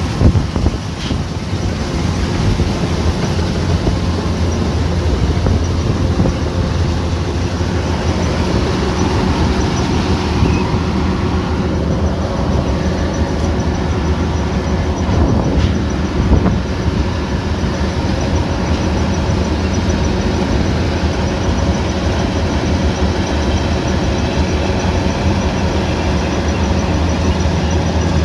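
Kubota DC105X combine harvester running steadily: a constant engine drone with several even, steady tones.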